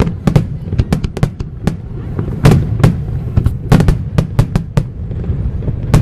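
Aerial fireworks shells bursting over the sea in quick, irregular succession, about three sharp bangs a second with echoing tails, over a steady low rumble. The loudest bangs come about halfway through.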